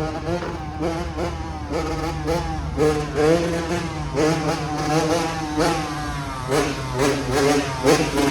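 Dirt bike engines revving again and again, pitch rising and falling in quick blips over a steady lower engine note.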